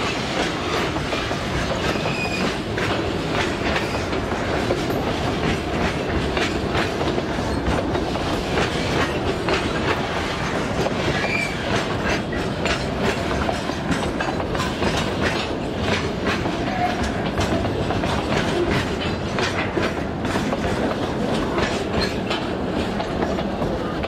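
Loaded freight wagons of a metre-gauge pulp train rolling past close by, wheels clacking steadily over the rail joints.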